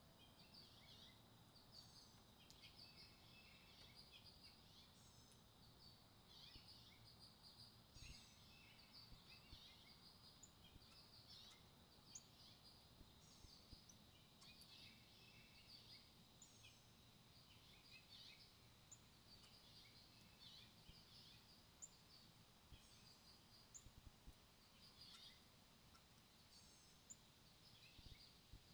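Faint songbird chirps and short calls, many quick notes scattered throughout, over a low, steady outdoor rumble.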